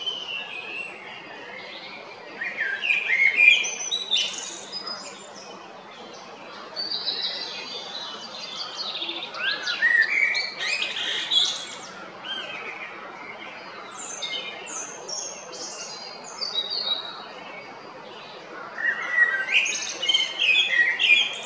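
Male Eurasian blackbird singing: warbling phrases that end in high twittering notes, about four phrases separated by pauses of a few seconds.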